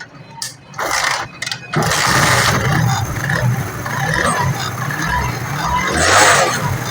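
Single-cylinder four-stroke engine of a 70cc Honda CD70-type motorcycle being started: a few short scraping bursts, then it catches about two seconds in and keeps running. The engine has a freshly replaced timing chain set, fitted to cure its noise.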